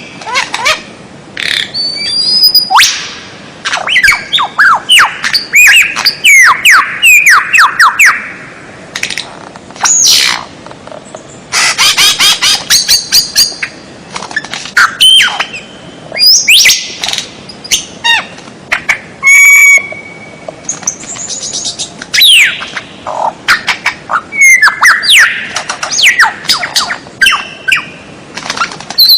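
Loud, varied songbird calls from a birdsong tutoring (masteran) recording: rapid chirps, sweeping whistles and harsh squawking notes in quick bursts, with a short steady buzzing call about two-thirds of the way through.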